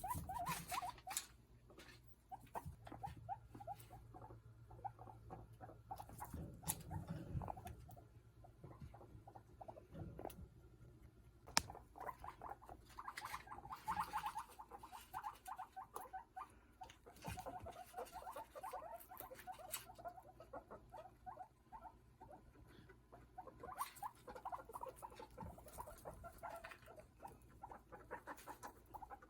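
Domestic guinea pigs vocalizing to each other in rapid runs of short pulsing notes that come and go in bouts, with scattered sharp clicks.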